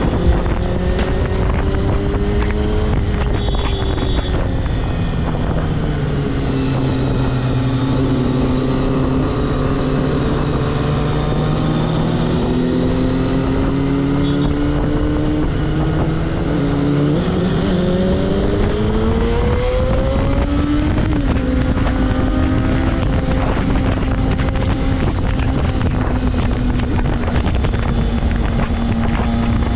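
Honda CBR250RR MC22 four-cylinder engine running on the road, its pitch falling and rising as the rider eases off and opens the throttle, with a couple of quick drops like gear changes, over steady wind noise.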